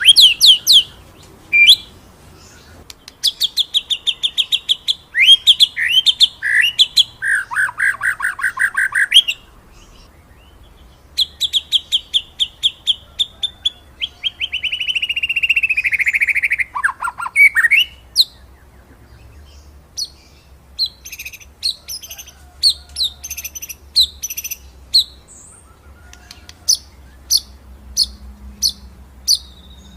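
White-rumped shama (murai batu) singing a long run of varied phrases: fast strings of sharp repeated notes, rolling trills and high pitch sweeps, broken by short pauses.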